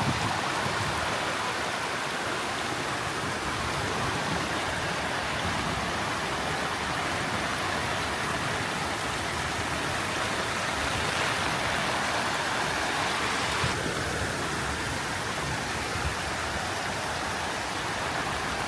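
Heavy rain falling steadily, a dense even hiss that eases slightly about three-quarters of the way through.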